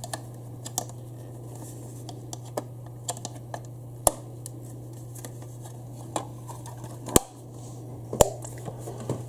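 Scattered light clicks and knocks of the ILIFE V4 robot vacuum's plastic dustbin being handled just after it has been emptied, with sharper knocks about four, seven and eight seconds in, over a steady low hum.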